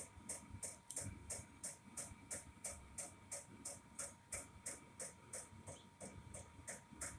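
12-volt diesel heater running: its fuel dosing pump ticks in an even rhythm, about three ticks a second, over the steady whine and low rumble of the burner fan.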